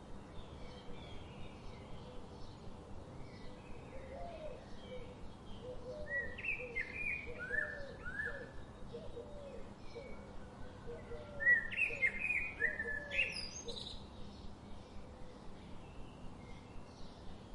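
Songbirds calling and chirping: bright, falling whistled notes come in two busy bursts, about six and eleven seconds in, over a run of lower, short arched calls. Beneath them runs a faint, even pulse of about two to three beats a second.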